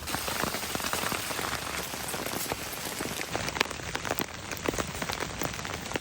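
Steady rain falling, a dense hiss of drops with many individual drop hits heard through it.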